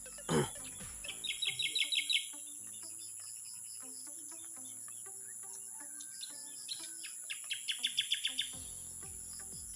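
Two runs of rapid chirps, about ten to a run, each run growing louder, from an animal calling. A steady high-pitched whine runs underneath.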